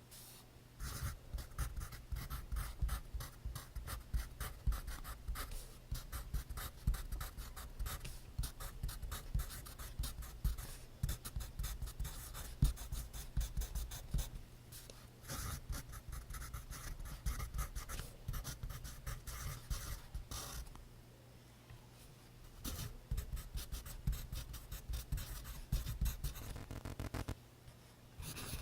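Pencil scratching on paper in quick, continuous strokes, stopping for about two seconds roughly two-thirds of the way through before starting again.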